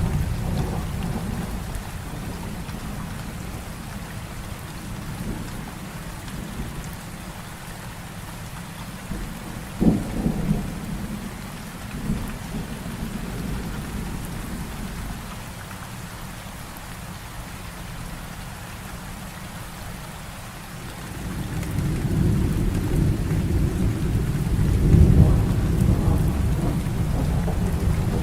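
Heavy rain falling steadily through a thunderstorm. About ten seconds in comes a sharp crack of thunder with a couple of smaller claps after it, and a long, deep thunder rumble swells up past the two-thirds mark, peaking a few seconds later.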